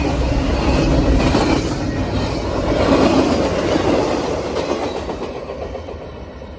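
Norfolk Southern freight train rolling past, its cars rumbling along the rails. The sound peaks a few seconds in, then fades steadily as the train moves off.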